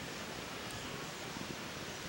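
Wood bonfire burning: a steady rushing hiss with a faint crackle or two.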